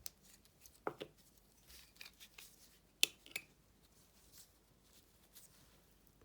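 Coin packaging being opened by hand: a few short clicks and soft rustles, the sharpest click about three seconds in with a second one just after, then quiet handling.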